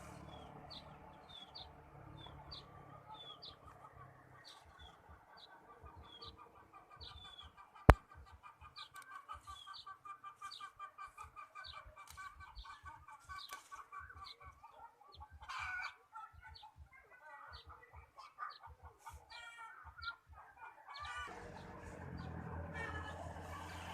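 Birds calling: short high chirps repeating about twice a second over a lower pulsing chatter. A single sharp click about eight seconds in, and a louder noisy hiss near the end.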